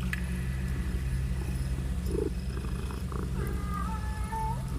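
Domestic cat purring steadily as it sleeps, a low, even rumble.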